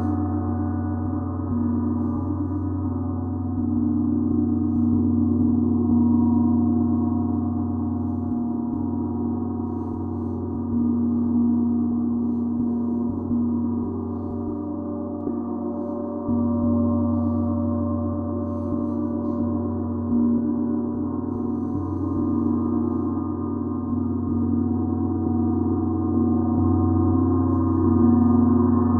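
A gong ringing in a long, sustained wash of many overlapping tones, swelling and fading slowly.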